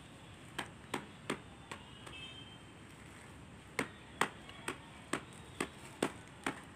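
Sharp, irregular pops and crackles from chopped banana flower frying in a steel pot of hot oil tempered with mustard seeds and dried red chillies, about a dozen over several seconds, over a faint sizzle.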